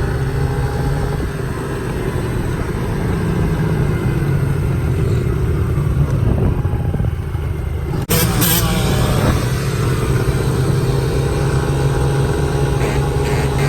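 Motor vehicle engine running steadily with an even low hum, dropping out for an instant about eight seconds in and then carrying on.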